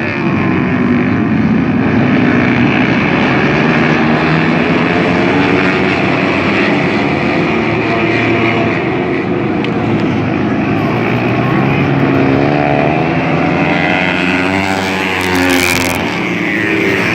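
A pack of dirt-track racing motorcycles running together, their engines revving with pitch that rises and falls, most plainly in the last few seconds.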